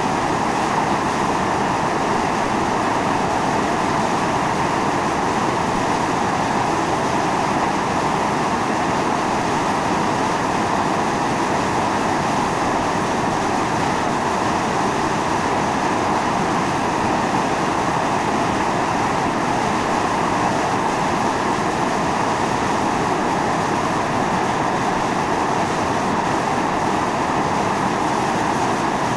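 Volcanic fumarole vents hissing as steam and sulfurous gas blast out under pressure, a loud, steady rushing roar without a break.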